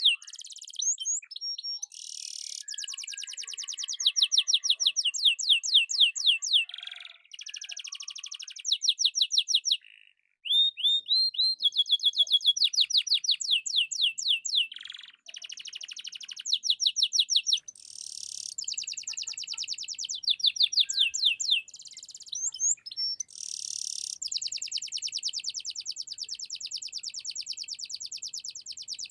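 Domestic canary singing continuously: long, fast trills of rapidly repeated high notes alternating with rising sweeps and rattling rolls, with a few brief pauses.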